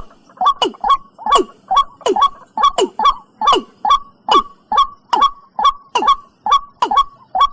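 Recorded watercock (cúm núm) calls: a fast, steady run of short notes, about three a second, each dropping sharply in pitch.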